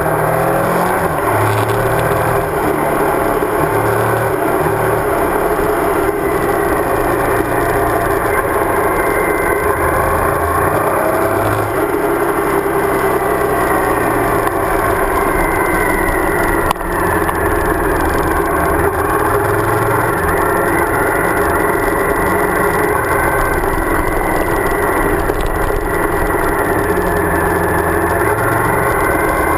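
Suzuki DL1000 V-Strom's 90-degree V-twin engine running under way on a gravel road, its pitch rising and falling with the throttle, over steady wind and road noise.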